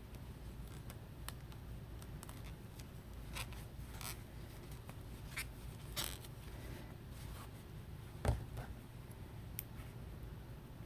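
Faint scratches and soft clicks of a crochet hook working through yarn, with one louder thump about eight seconds in.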